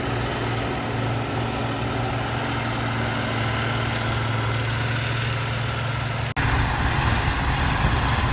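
Motor grader's diesel engine running steadily while it mixes soil with its blade. About six seconds in the sound cuts off abruptly and gives way to a louder, rougher engine.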